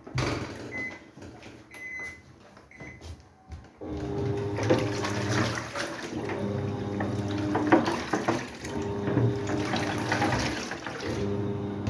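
Haier fully automatic washing machine: three short high beeps, then about four seconds in its motor starts with a steady hum while water rushes and churns in the tub.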